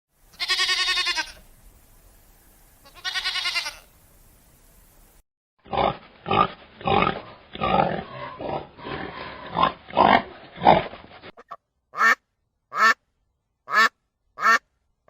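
A sequence of farm animal calls. Two drawn-out pitched calls come first, then a fast run of short calls, then five short, clipped calls about a second apart.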